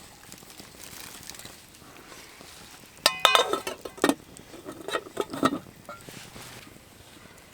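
Metal cookware clinking: one ringing clink about three seconds in, then several softer knocks and scrapes.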